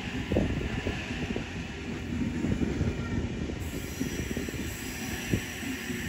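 A train passing close by: a steady low rumble broken by irregular knocks of the wheels and carriages. Thin high wheel squeal joins in about halfway through.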